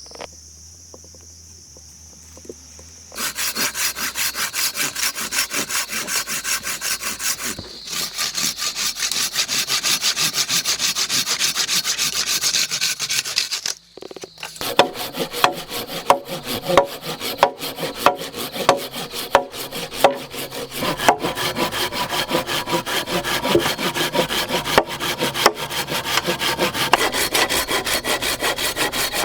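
Steady back-and-forth hand sawing or scraping on wood, a few strokes a second. It starts about three seconds in and pauses briefly near the middle.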